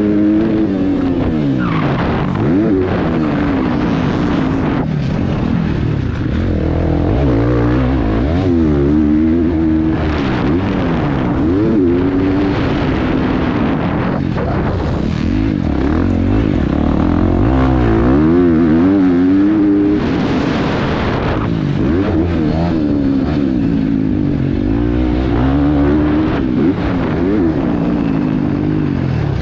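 KTM 350 XC-F four-stroke single-cylinder dirt bike engine under hard riding, heard from a helmet-mounted camera. The revs climb and drop again and again as the throttle is opened and shut.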